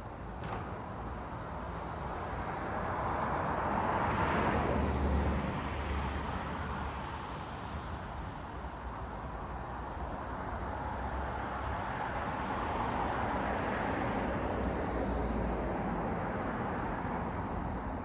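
City road traffic at night: a steady hum of traffic with vehicles passing, swelling and fading as one goes by about four to five seconds in and another around the middle of the second half.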